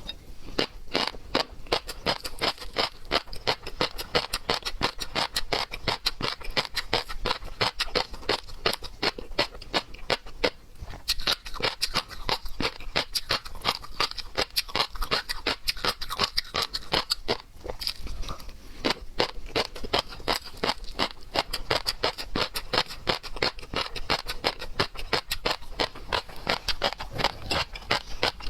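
A person chewing and crunching seafood close to the microphone: a continuous run of rapid crackling clicks, with a few brief pauses near the middle.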